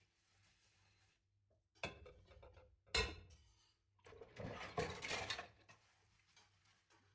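Dishes and cutlery being handled during washing up: light clinks about two seconds in, a sharp knock of crockery about a second later, then just over a second of clinking and scraping.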